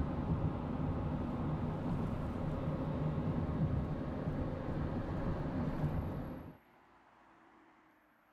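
Steady low mechanical rumble with a hum in it, cutting off abruptly about six and a half seconds in and leaving only faint background with a few brief thin high tones.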